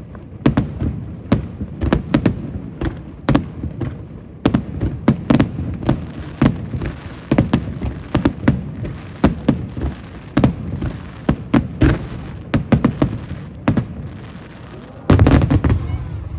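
Aerial fireworks shells bursting in quick, irregular succession, several sharp bangs a second with short echoing tails. A louder, denser barrage of bursts comes about fifteen seconds in.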